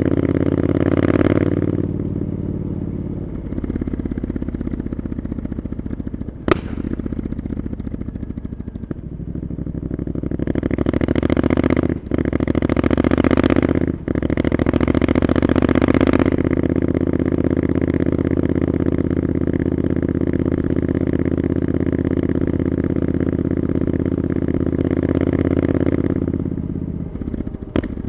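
Triumph Scrambler 900's parallel-twin engine through an Arrow exhaust, under way on the road. It pulls harder early on and again through the middle, with two brief breaks in power at gear changes, then holds a steady cruise before easing off near the end. A single sharp click sounds about six seconds in.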